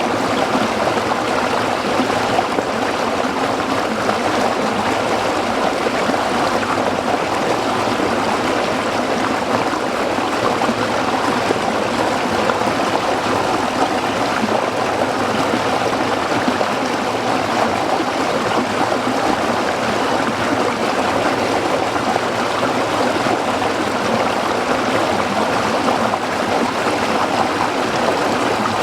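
A small stream flowing and babbling over rocks, steady and unbroken.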